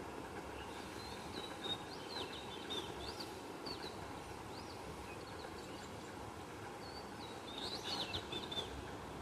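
Small birds chirping in quick high notes, in two bouts: one from about a second in and another near the end. Under them runs a steady background noise.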